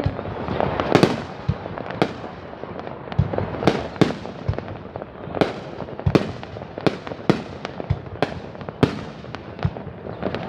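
Aerial fireworks display: shells bursting in an irregular run of sharp bangs, about two a second, over a continuous crackle.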